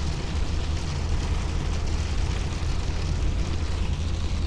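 Heavy rain pounding on a pickup truck's roof and windshield, heard from inside the cab, over a steady low rumble from the truck's engine and tyres on a wet road.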